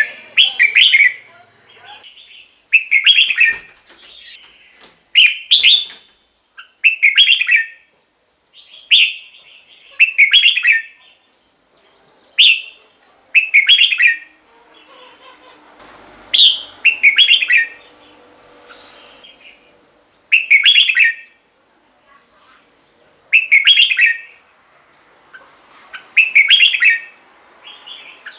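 Red-whiskered bulbul singing loud, short, whistled phrases, one about every two seconds.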